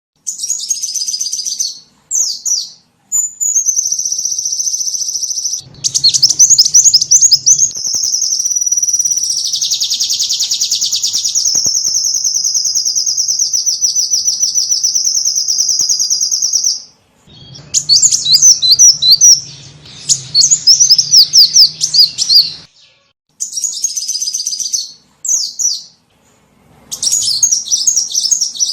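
Small-bird lure call (pikat): rapid high-pitched chirps and trills, with one long unbroken trill through the middle and shorter chirping bursts broken by brief pauses.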